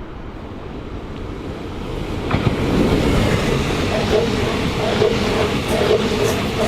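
A train approaching and passing on the line, growing louder over the first two to three seconds and then running steadily with a hum, with sharp wheel clicks on the rails near the end.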